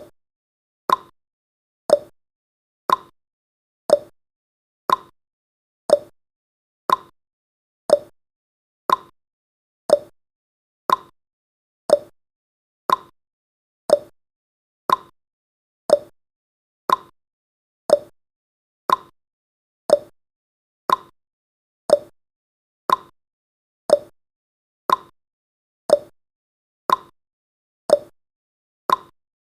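Countdown timer tick sound effect: one short, sharp tick each second, with silence in between.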